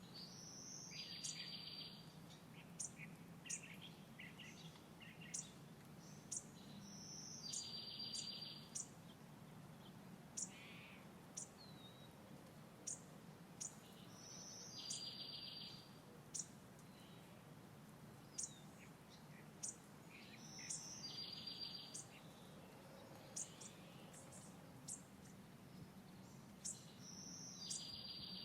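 Wild birds calling: a short song phrase ending in a fast trill repeats about every seven seconds, with brief high chirps in between.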